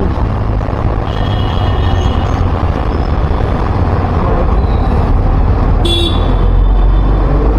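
Steady road-traffic noise heard while travelling along a busy city road, mostly a low rumble, with a brief horn toot about six seconds in.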